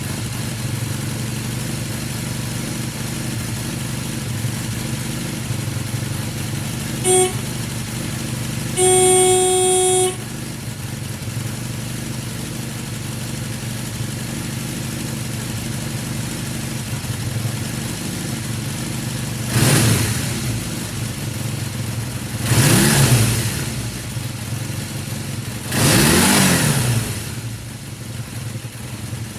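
Kawasaki Z440LTD's parallel-twin engine idling. There is a short horn beep about seven seconds in and a longer one about two seconds later. Then come three throttle blips, each revving up and dropping back to idle.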